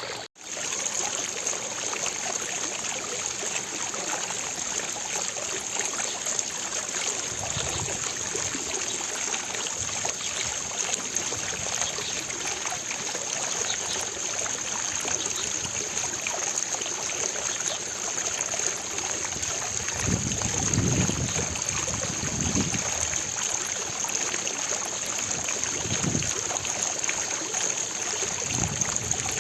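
Fountain water splashing and falling in a steady, even rush, with a brief dropout just after the start and a few soft low swells later on.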